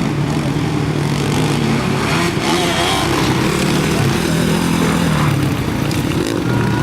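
Motocross bike engines revving loudly, their pitch shifting up and down with throttle and gear changes.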